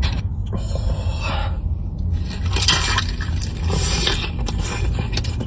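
Chewing and crunching on crispy fried chicken tenders, in a few irregular bursts over a steady low rumble.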